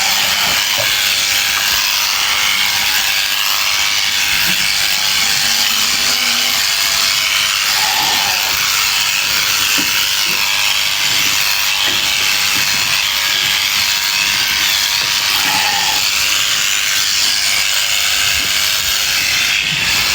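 Electric sheep shears running steadily and cutting through fleece, a continuous buzzing hiss.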